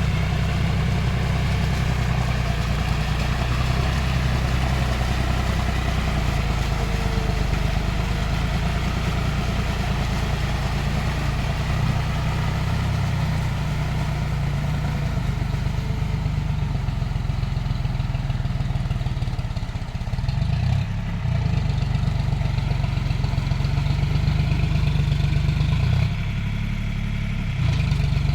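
John Deere tractor engine running steadily, its note dropping briefly about two-thirds of the way through and again near the end.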